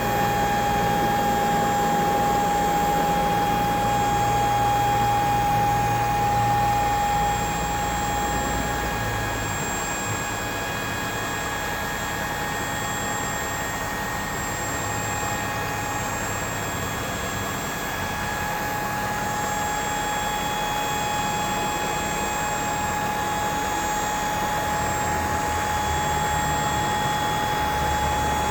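2012 Ford F-550 Super Duty dump truck running, with a steady high whine over a low engine rumble; the rumble shifts in level a few times, dropping about nine seconds in.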